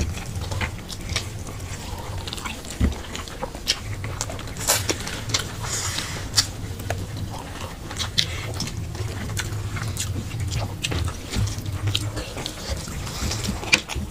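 Two people chewing and smacking their lips while eating fried rice with chicken by hand: many short irregular mouth clicks over a low steady hum.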